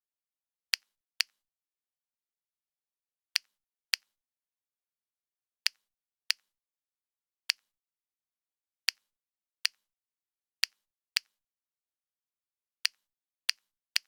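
Short, sharp clicks, about a dozen at irregular intervals and often in pairs about half a second apart, with dead silence between them.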